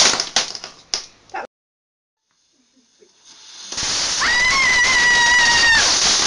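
Fireworks fizzing with a few sharp pops that die away, then after a break of dead silence a steady hiss returns with a single whistle lasting about a second and a half.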